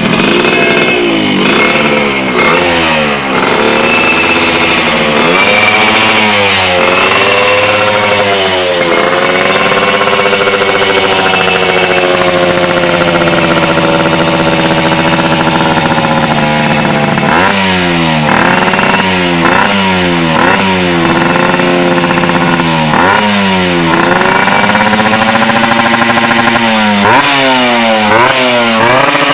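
Yamaha RX-King's two-stroke single-cylinder engine breathing through a stainless kolong cobra aftermarket exhaust, revved in repeated quick throttle blips. In the middle it holds a long sustained rev for several seconds, then goes back to rapid blips.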